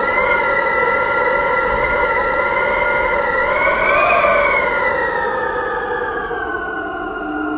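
A siren wailing, its pitch rising slowly to a peak about four seconds in and then falling gradually, over a steady low rushing noise.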